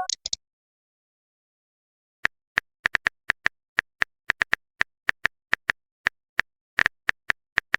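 Phone keyboard typing clicks: a run of short, sharp taps at an uneven pace, starting about two seconds in, like a message being typed out.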